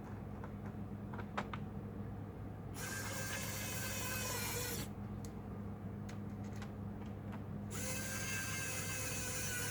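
Small electric screwdriver whirring in two runs of about two seconds each, with a steady motor whine, preceded by a few light clicks of small parts being handled.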